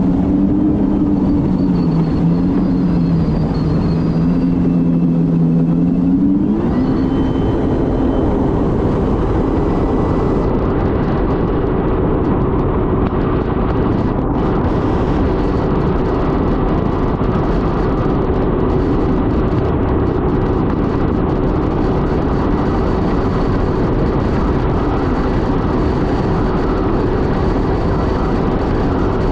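Supercharged 2022 Kawasaki Ultra 310LX jet ski's 1.5-litre four-cylinder engine running under throttle, pitch wavering at first, then climbing about six seconds in and holding steady near full speed under a loud rushing noise.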